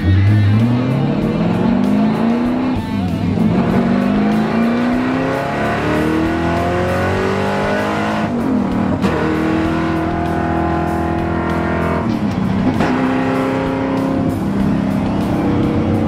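Mid-mounted supercharged V8 of the Mach 40 Mustang accelerating hard through the gears. The engine note climbs steeply and drops back at each upshift, about three times.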